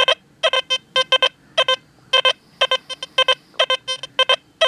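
XP Deus II metal detector sounding repeated short, same-pitched beeps, often in pairs, about two groups a second, as the coil is swept back and forth. The target ID reads 1 to 2, an iron reading from the nail lying above the gold ring.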